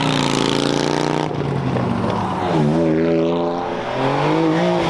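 Car engines revving and accelerating, the engine note climbing, falling back and climbing again.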